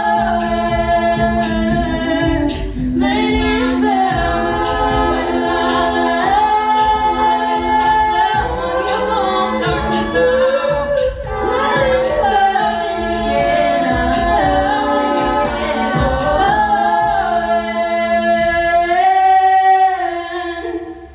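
Mixed a cappella ensemble singing in close harmony, lead lines moving over held lower chords. Near the end the group swells into a final held chord that then fades away.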